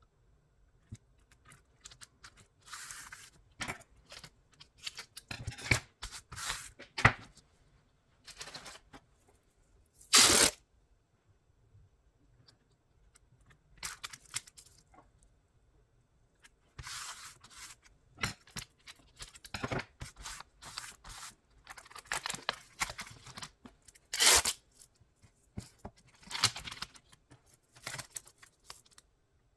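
Adhesive tape being pulled off the roll and torn in short strips while a keyboard is taped up, with handling clicks and rustles in irregular bursts. There is one loud rip about ten seconds in.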